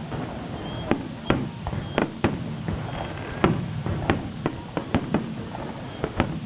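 Fireworks shells bursting in an uneven string of about a dozen sharp bangs, each with a short rumbling echo.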